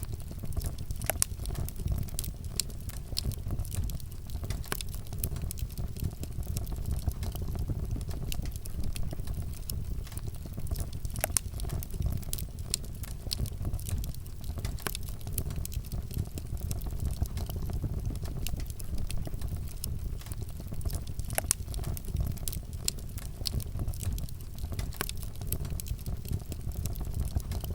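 Wood fire burning, with sharp irregular crackles and pops over a steady low rumble.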